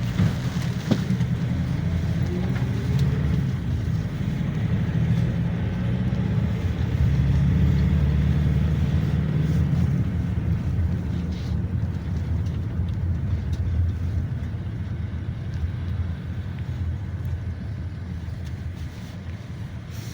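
GAZelle Next minibus driving, heard from inside the passenger cabin: a steady low rumble of engine and road noise that swells through the middle and eases off toward the end.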